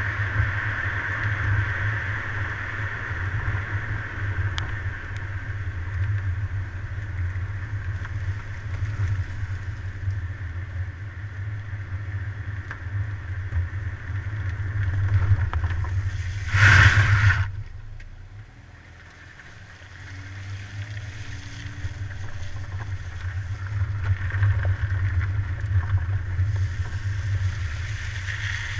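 A car driving at speed: steady engine and road rumble with wind noise. A brief loud rush of noise comes about two-thirds of the way through, then the sound drops quieter for a few seconds and builds back up.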